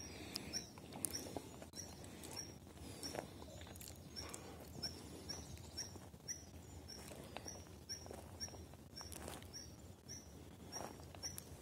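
A bird repeating one short, high note over and over, evenly spaced at about two or three notes a second, with footsteps scuffing on the forest floor beneath it.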